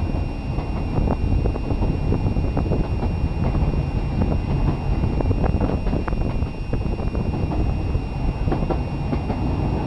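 Narrow-gauge train running along the track, heard from on board: a steady rumble with scattered faint clicks from the wheels, and wind buffeting the microphone.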